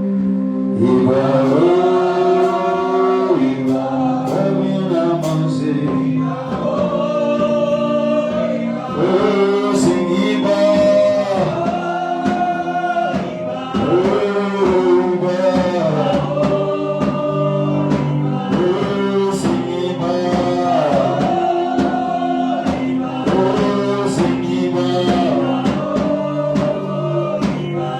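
Gospel worship song: singers carrying a melody over sustained keyboard chords.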